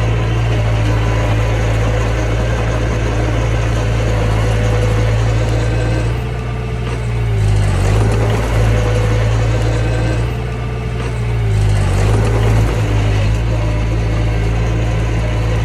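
Mini bulldozer's diesel engine running steadily. Twice, about six and ten seconds in, the engine note drops and eases off briefly, then picks back up.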